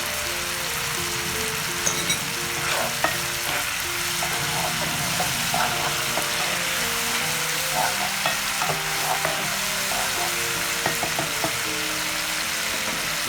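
Food sizzling in a hot pan, with a utensil knocking and scraping against the pan from about two seconds in, over soft melodic background music.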